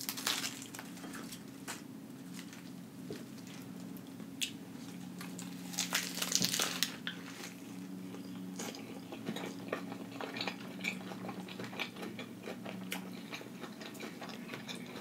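Close-miked crunching bites into crisp iceberg lettuce wrapped around a Beyond Meat burger patty, then chewing and wet mouth sounds with small clicks. The loudest crunch comes about six seconds in.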